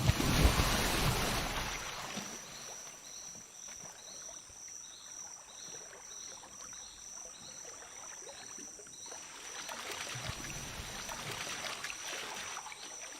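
Black caiman thrashing in lake water: a sudden loud splash that dies away over about two seconds, then water churning again near the end. Behind it, a steady high insect drone and a regular pulsing insect call.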